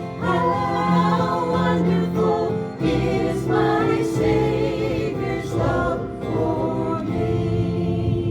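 Group of voices singing a gospel hymn together, with instrumental accompaniment.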